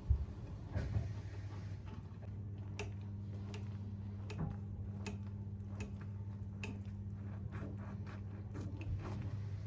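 Scattered light clicks and taps of kitchen handling over a steady low hum, with one sharper knock just after the start.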